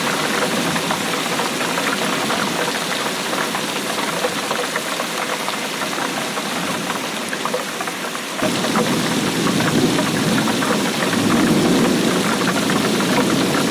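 Steady rainfall, a dense patter of drops over an even rush. A little past halfway the sound changes abruptly to a fuller, deeper rush.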